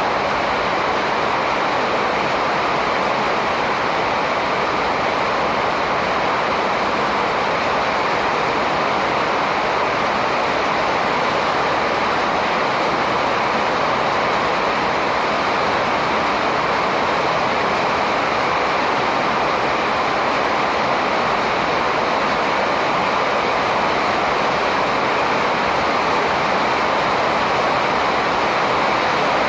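A steady rushing noise, even and unbroken, with no distinct calls standing out.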